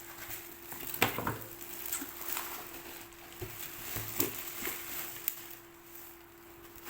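Scattered clicks, knocks and rustles of items being handled and unpacked, over a faint steady hum.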